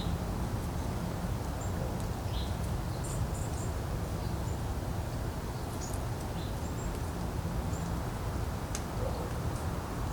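Wind rumbling steadily on the microphone, with several short, high bird chirps scattered through it and a few sharp ticks.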